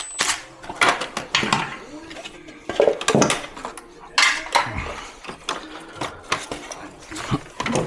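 Hard plastic and metal air-conditioner parts, screws and tools knocking and clinking together as the unit is taken apart, a run of irregular sharp clacks.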